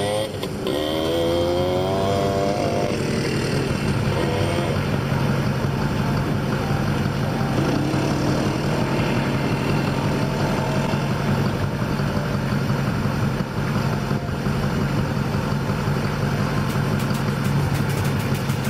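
ATV engine idling steadily, with a few brief revs in the first few seconds.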